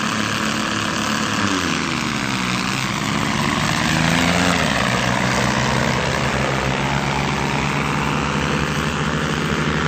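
Tractor engine running, its pitch dipping and rising again about two to four seconds in, then holding steady.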